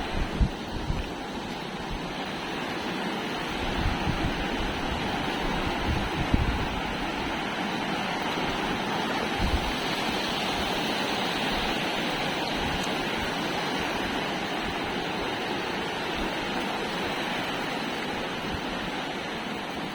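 Steady rushing noise of flowing water, with wind thumping on the microphone now and then in the first several seconds.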